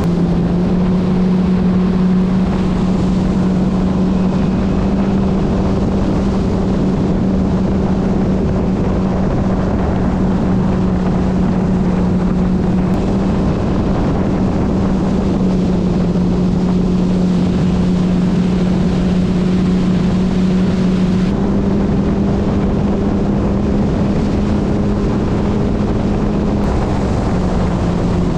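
Yamaha FX Cruiser HO WaveRunner's four-stroke engine running steadily at cruising speed, with the rush of water and wind. The engine note shifts slightly in pitch a few times as the throttle changes.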